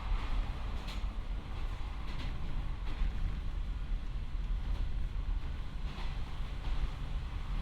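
Steady rumble of a KiHa 40-series diesel railcar on the move, heard from inside the passenger cabin, with a few faint light knocks from the running gear.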